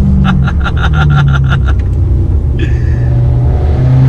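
BMW E92 M3's V8 running loud through a straight-piped, decat Armytrix exhaust with its valves open. In the first second and a half there is a quick run of sharp crackles as the revs drop, then the note holds lower and rises again near the end.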